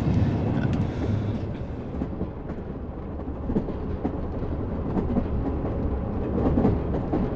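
Passenger train running, heard from inside the carriage: a steady low rumble with scattered light knocks from the wheels and carriage.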